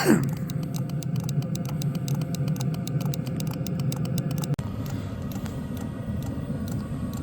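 Chinese diesel heater running: a steady low blower hum with a rapid, even ticking of the fuel dosing pump. About four and a half seconds in, the sound cuts abruptly and the ticking continues more slowly.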